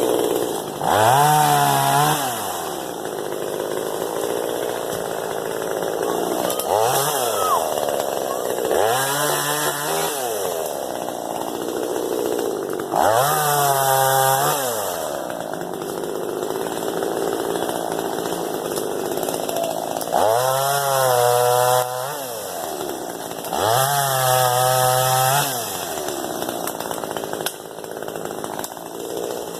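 Hoteche chainsaw revving up to full throttle and dropping back, six times over, running at a lower speed in between.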